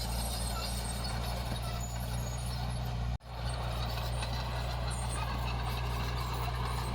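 Heavy diesel construction machinery engine running steadily with a low drone. The sound cuts out abruptly for an instant about three seconds in, then resumes.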